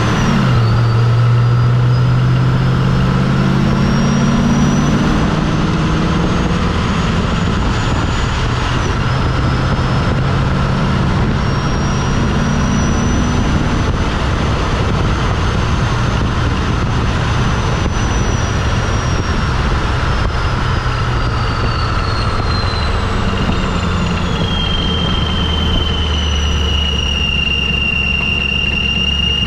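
Procharger centrifugal supercharger on a 2004 Mustang Mach 1's 4.6-litre V8, driven on the road at low rpm: a high whine climbs slowly with engine speed, drops sharply at a gear change about eight seconds in, climbs again, then falls away about twenty seconds in and holds steady. Underneath are the engine note and a rush of wind noise.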